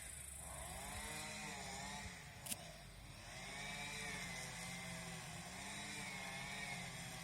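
A small engine running, its pitch rising and falling again and again as the speed changes, with one sharp click about two and a half seconds in.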